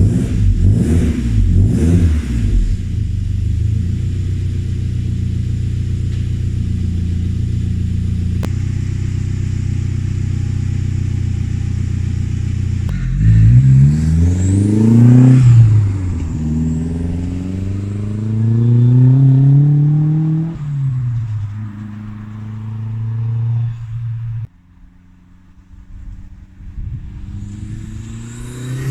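1987 Saab 900 Turbo's turbocharged four-cylinder engine through a freshly fitted 3-inch exhaust with the extra silencer removed. It idles steadily, then is revved up and let fall back twice, and again at the end.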